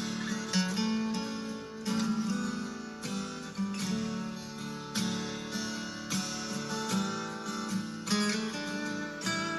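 Music: a strummed acoustic guitar, its chords struck in a steady rhythm about once a second.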